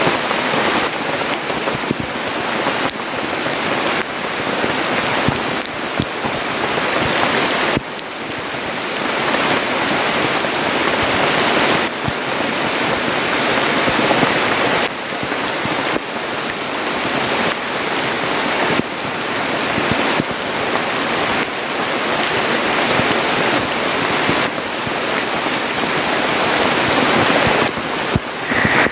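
Heavy rain pouring down in the forest: a loud, steady rushing downpour that breaks off and starts again every few seconds.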